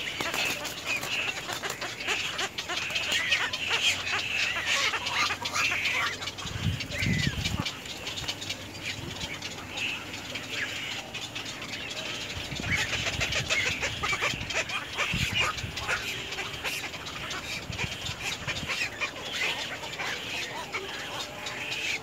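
Birds calling continually, a high chattering with many sharp clicks, and a few low thumps about a third of the way in.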